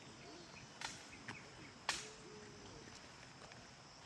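Three sharp snaps of twigs or branches in dense rainforest vegetation, the last the loudest, as gorillas move out of sight in the bush, over a faint steady hum of insects.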